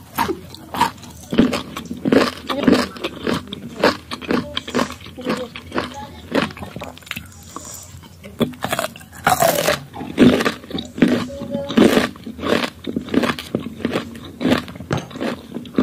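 Crisp unripe green mango being bitten and chewed close to the microphone: a steady run of crunches, roughly two a second.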